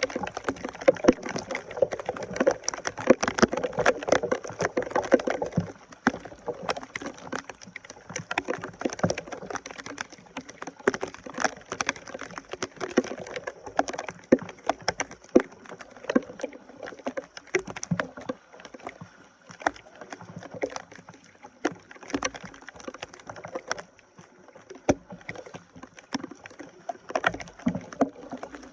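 Water sloshing and splashing while debris is worked loose from a clogged drain with a hand tool, with many irregular knocks and scrapes, busiest in the first few seconds.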